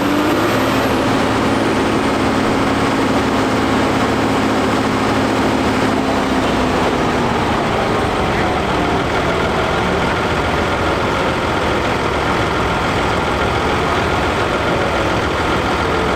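Fendt 716 tractor engine running hard under load on a PTO dynamometer, with its pitch slowly falling over several seconds as the load pulls the engine speed down.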